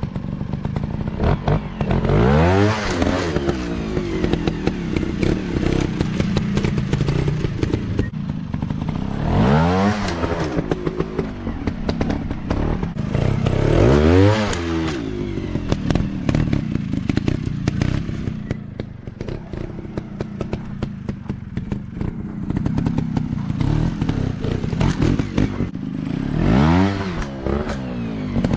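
Off-road dirt bike engines running, revving up and dropping back about four times, with frequent knocks and clatter throughout.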